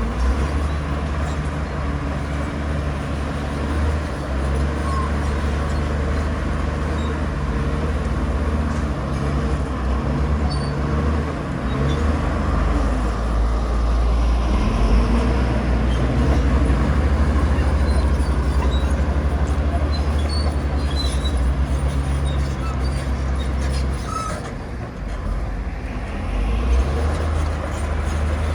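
Heavy diesel engines of earthmoving machinery running steadily under load, a deep continuous drone. It eases off briefly near the end, then picks up again.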